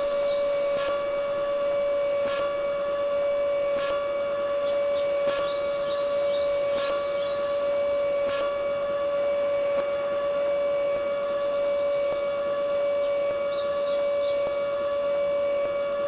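Small electric motor running at a constant speed with a steady, high-pitched whine, and faint clicks about every one and a half seconds.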